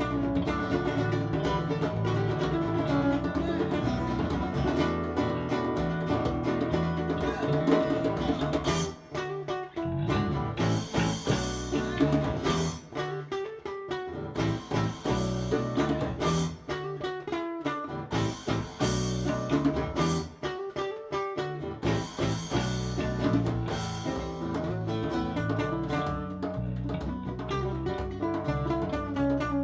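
Small acoustic band playing live: plucked acoustic guitar over bass and percussion in a slow song, with no singing. The bass and percussion drop away for moments several times in the middle.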